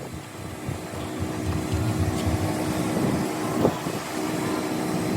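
Self-service car wash pressure washer running: a steady rumbling spray with a low, even hum, getting a little louder about a second in.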